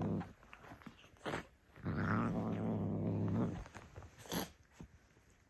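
A cat growling low and long: one growl fades out just after the start, and another runs from about two seconds in for about a second and a half. Two brief sharp noises come between the growls and about a second after the second one.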